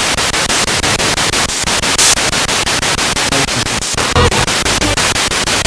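Spirit box radio sweeping through stations: loud static chopped into a rapid, even stutter as the tuner jumps from frequency to frequency, with brief scraps of broadcast sound caught along the way.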